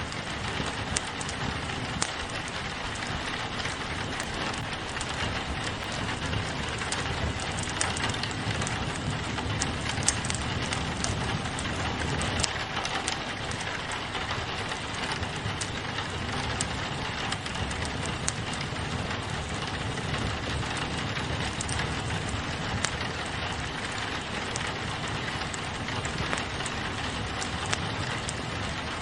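Steady rain pattering on a window, mixed with a crackling wood fire, with short sharp pops and clicks scattered through it.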